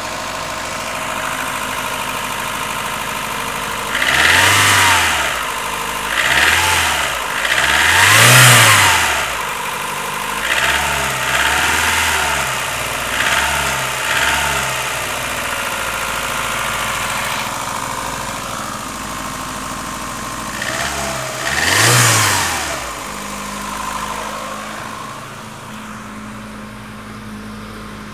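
Suzuki Swift engine running cold at idle and blipped with the throttle several times, each rev rising and falling quickly, with the largest about a third of the way in and one more later on. The owner is showing a strange noise the car makes when cold.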